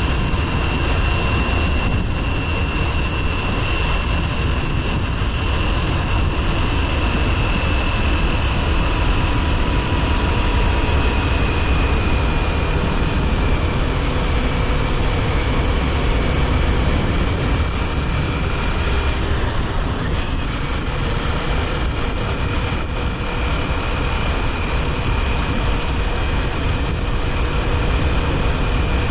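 Kawasaki Ninja 400's parallel-twin engine running at a steady cruise on the move, its whine sinking slightly in pitch in the first half and then holding level over a constant low rushing rumble.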